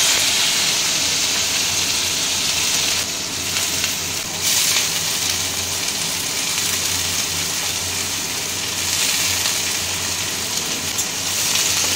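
Chopped carrot, long beans and shredded cabbage frying in smoking-hot mustard oil in a kadai: a steady sizzling hiss that dips briefly about three seconds in, over a low steady hum.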